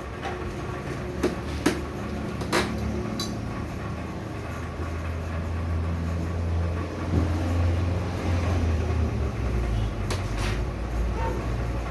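A few sharp metallic clicks and knocks from turbocharger parts being handled and fitted, over a steady low rumble.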